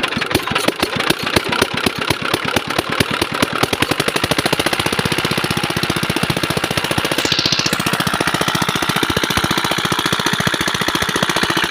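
Diesel water-pump engine running with a rapid knocking beat. It is uneven and harder for the first few seconds, then settles into a steady, faster rhythm about four seconds in.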